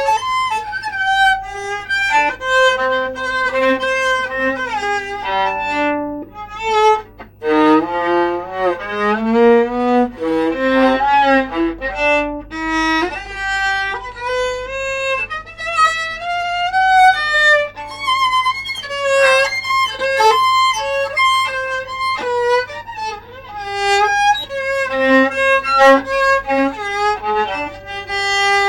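Solo viola, bowed, playing a melody: sustained notes and stepwise runs, including a rising run of quick notes about eight seconds in.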